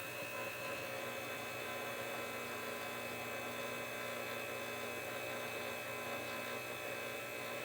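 Steady electrical hum with an even hiss and a faint high steady tone, unchanging throughout.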